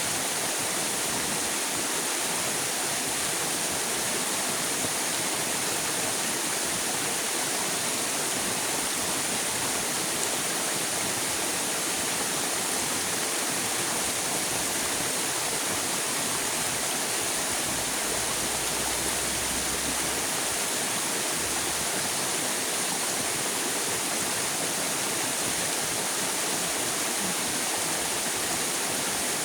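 River water rushing with a steady, unchanging noise.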